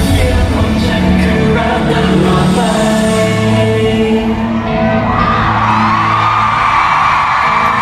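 Live pop music: a singer over a band in a large hall, with the crowd whooping and yelling.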